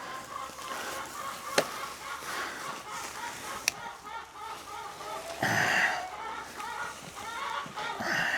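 Chickens clucking and chattering in short repeated calls, with two sharp knocks and a louder, noisy sound about five and a half seconds in.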